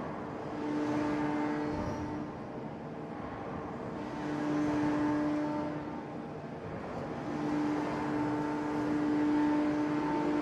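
Heavy forging machinery running in the forge hall. It gives a steady hum with overtones over a rumbling background, swelling louder three times and easing between.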